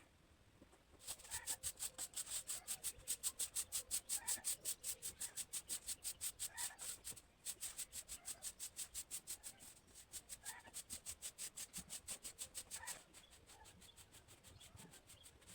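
Fast, even scraping or rubbing strokes, about six a second. They start about a second in, break off briefly around the middle, and stop near the end, with faint short bird-like chirps underneath.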